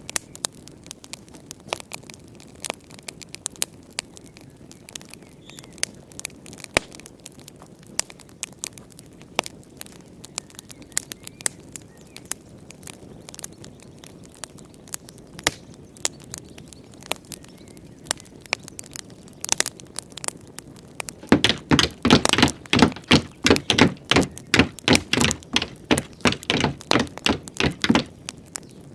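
Wood fire crackling, with scattered sharp pops over a low steady hiss; about three quarters of the way through, a dense run of louder pops lasts several seconds.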